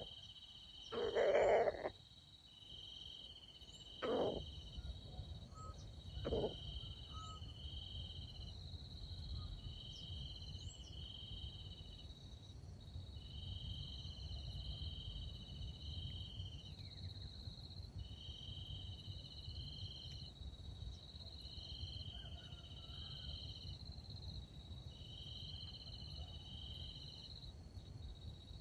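Insects chirping steadily: a high continuous tone with pulses repeating about every two seconds, over a low outdoor rumble. Three short louder calls come in the first seven seconds, the loudest about one second in.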